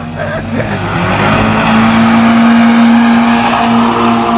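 A car's engine revving up about a second in and then held at a steady high pitch, a hard launch from standstill.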